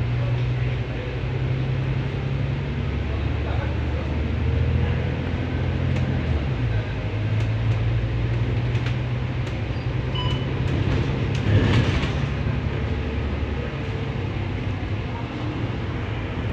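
Bus engine running with a steady low rumble, heard from inside the moving bus. The engine note changes about six and a half seconds in, with scattered small rattles and a brief louder noise near twelve seconds in.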